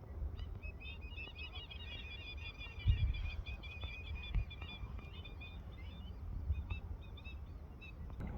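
Small birds twittering: a dense run of short, high chirps that thins out after about five seconds, over a low rumble with a thump about three seconds in.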